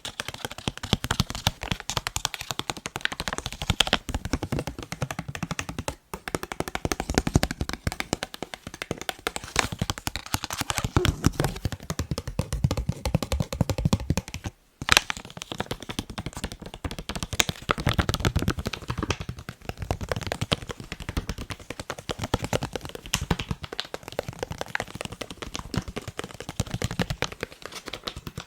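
Fingers tapping fast on a face mask: a dense, rapid run of sharp taps, broken by two brief silences, about six seconds in and again near the middle.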